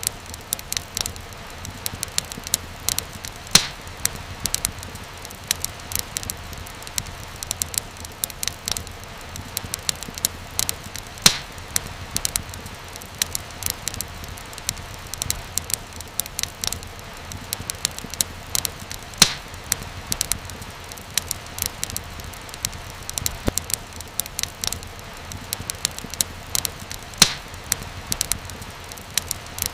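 Wood fire crackling steadily, with many sharp pops and snaps over a soft hiss and low rumble; a few louder pops stand out about every eight seconds.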